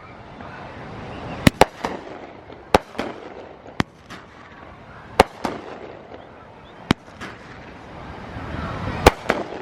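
Consumer fireworks going off: about a dozen sharp bangs at irregular intervals, some in quick pairs, with a crackling hiss between them.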